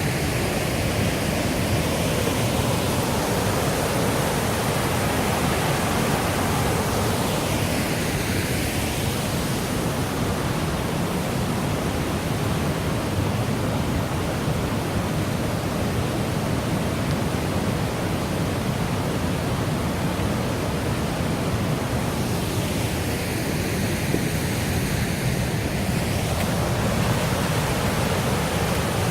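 River water rushing in a steady, dense wash of noise, its tone sweeping slowly twice.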